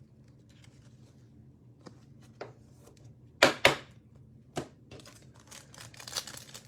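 Plastic cello-pack wrapper of trading cards being torn open: two sharp snaps about three and a half seconds in, another a second later, then crinkling toward the end.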